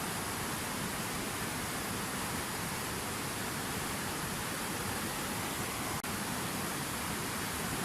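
Fountain waterfall, water pouring and splashing in a steady, unbroken hiss. There is a split-second dropout about six seconds in.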